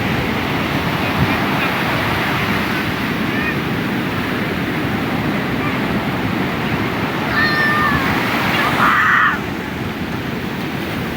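Surf washing and breaking on a beach, a steady rush of noise. About seven and a half seconds in there is a short, wavering high-pitched call, and a louder short cry comes about a second later.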